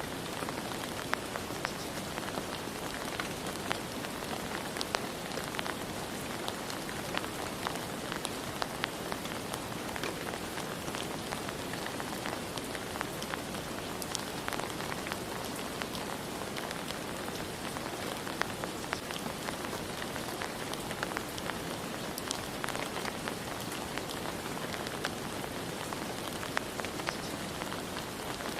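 Steady rain falling on a surface, with many individual drops ticking sharply over the constant hiss.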